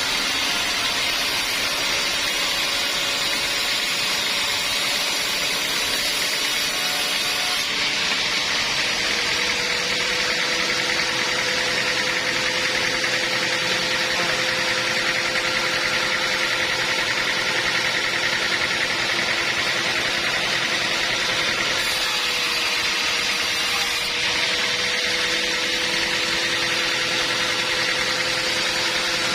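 Band sawmill running steadily, a continuous machine noise with a steady hum whose pitch shifts about eight seconds in and again a little before the end.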